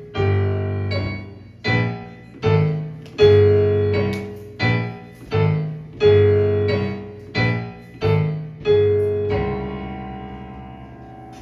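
Piano playing the instrumental close of a song: chords struck about every three-quarters of a second, ending on a final chord about three-quarters of the way in that rings out and fades.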